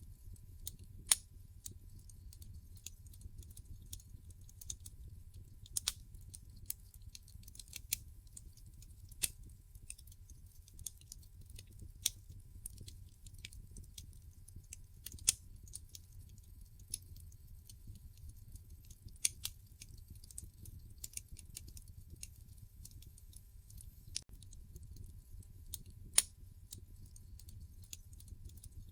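Wood fire crackling in a fireplace: irregular sharp pops and snaps from the burning logs over a low, steady rumble.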